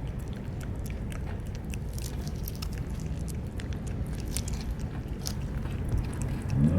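Cats chewing food, with many small irregular clicks of eating over a steady low rumble. A low rising sound swells near the end.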